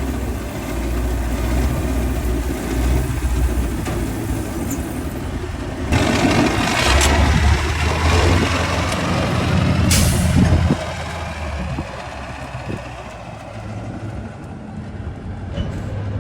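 Vintage oilfield truck's diesel engine running under load, louder for a few seconds from about six seconds in, with a short hiss of air about ten seconds in; the engine then settles back to a lower level.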